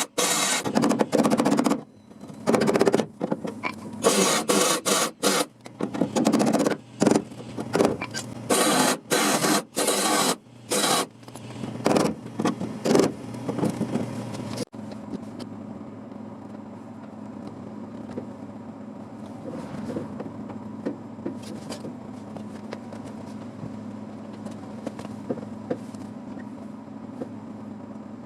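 Rough scraping on car-body sheet metal in repeated short strokes with brief gaps, about half a second to a second each, stopping abruptly about halfway through; after that only a steady low hum with faint clicks.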